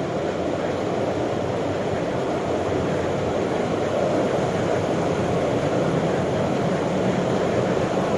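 Steady running noise of a metro train heard from inside the carriage: an even rumble and rail noise, slowly growing a little louder.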